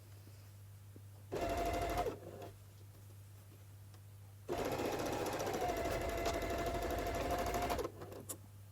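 Sewing machine stitching a seam through fabric in two runs: a short burst about a second in, then a longer steady run of about three seconds that stops near the end.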